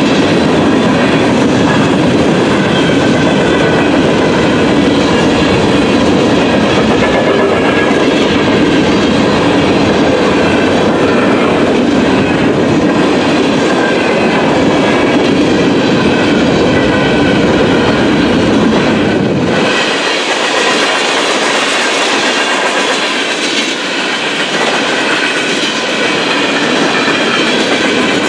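Freight train of open-top gondola cars rolling steadily past at a grade crossing, its wheels running on the rails. About two-thirds of the way through the low rumble drops away, leaving the lighter rolling noise.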